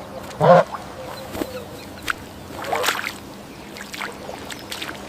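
A duck quacking: one loud short quack about half a second in and a weaker call near 3 seconds, with faint scattered clicks in between.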